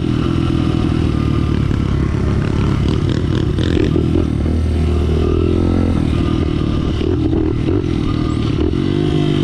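Pit bike engines running under way, two small dirt bikes riding together. The engine note holds fairly steady, with a few dips and rises in pitch.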